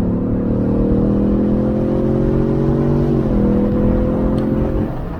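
2020 Ford Mustang EcoBoost's 2.3-litre turbocharged four-cylinder engine pulling under acceleration with the roof down, its pitch climbing steadily. The pitch drops a step about three seconds in, then climbs again before easing off near the end, over wind and road rumble.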